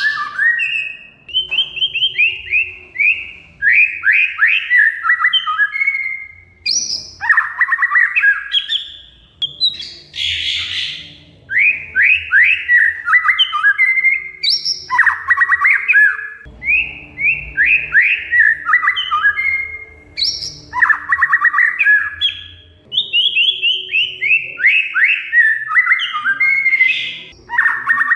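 Oriental magpie-robin (kacer) singing: phrase after phrase of quick, falling chattering notes, with short pauses between phrases.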